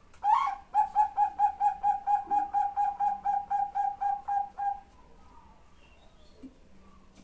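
Female zebra dove (Bangkok-type perkutut) calling a male: an opening rising note, then a rapid run of about twenty short, even coos, about five a second, lasting some four seconds.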